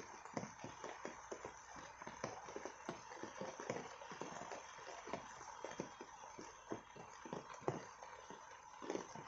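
Rain falling: a steady hiss with many irregular drops tapping on broad leaves and wet ground, several a second, some louder than others.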